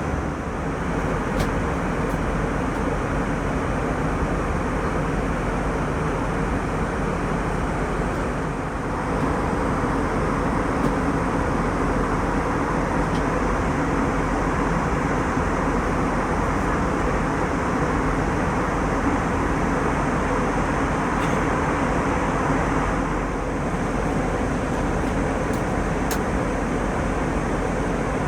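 Steady cabin noise inside an Airbus A320 in flight: an even rush of jet engines and airflow, with a few faint ticks.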